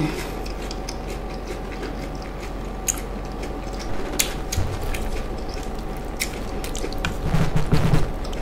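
Close-miked chewing of soft ripe plantain and fish stew, with many small wet mouth clicks over a faint steady hum. Near the end come soft squelching sounds as stew is spooned onto a plantain.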